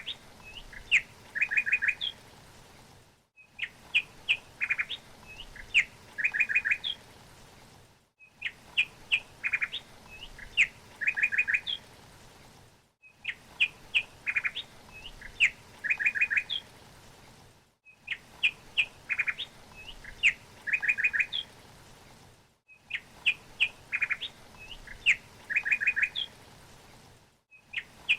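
Small songbird chirping and tweeting: a short phrase of quick chirps and a fast trill, played as a loop that repeats identically about every five seconds with a brief silent gap between repeats.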